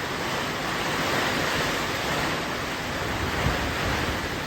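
Hurricane wind blowing hard and steadily, a dense rushing noise, with gusts buffeting the microphone in low rumbles.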